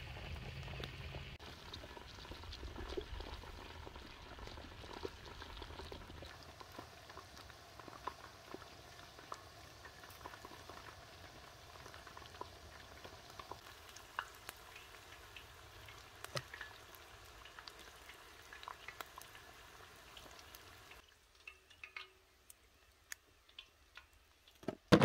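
Chicken wings frying in hot cooking oil: a steady sizzle with scattered small pops and crackles. Near the end it cuts off suddenly to near quiet with a few faint clicks.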